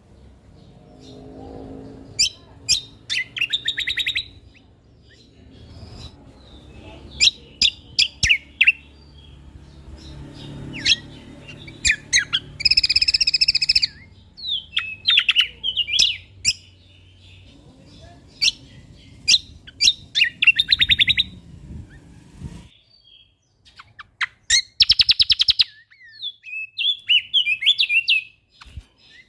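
Songbird singing: short, sharp high chirps broken by fast rattling trills. A low background rumble underneath cuts off suddenly about three-quarters of the way through.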